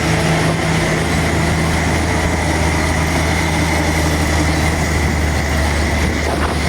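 Heavy diesel engine of a construction machine running steadily at low revs, with a thin high whine that stops near the end.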